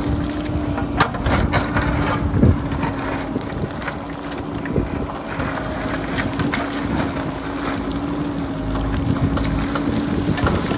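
JCB backhoe loader's diesel engine running steadily, with wind buffeting the microphone. A few sharp knocks come in the first couple of seconds.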